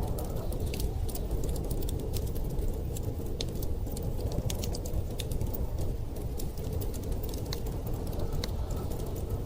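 Wood fire crackling, with irregular sharp pops and snaps, over a steady low rush of wind.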